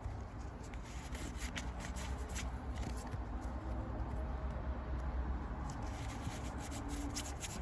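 Pokémon trading cards being handled and slid one past another as a freshly opened booster pack is flipped through, with scattered light clicks and rustles.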